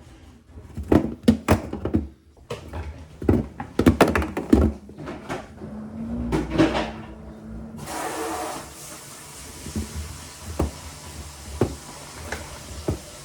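A series of knocks and clunks, like a plastic bucket being handled and set down. About eight seconds in, a tap is turned on and water runs steadily into the bucket with a hiss, with a few light knocks over it.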